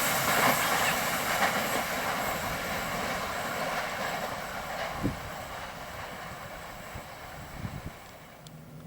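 A train running over the rails, its wheel and rail noise fading steadily as it moves away.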